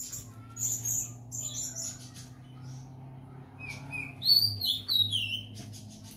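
Birds chirping: scattered short high chirps, the loudest a quick run of falling notes about four seconds in, over a low steady hum.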